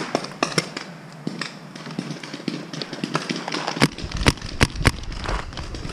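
A scatter of light taps and scuffs, then four sharp cracks in quick succession about four seconds in. A low rumble, like wind or handling on the microphone, comes in with the cracks.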